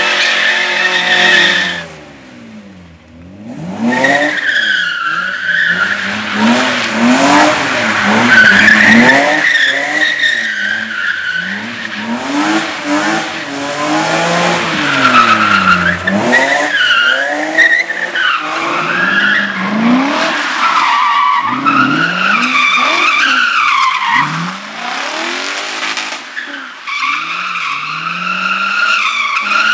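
Competition car's engine revving hard and dropping back again and again as it is driven through a slalom, with tyres squealing through the turns. The sound drops away briefly about two seconds in.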